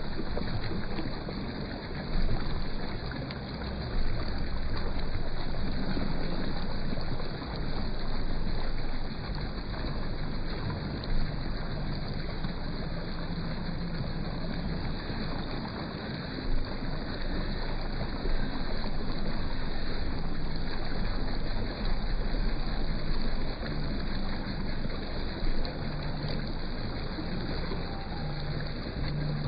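Steady rushing roar of the Khun Korn waterfall, with a few brief low bumps scattered through.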